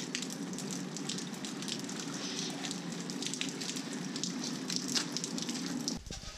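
Steady crackling patter of rain on wet mud and ground, with many small drips and ticks; it changes abruptly about six seconds in.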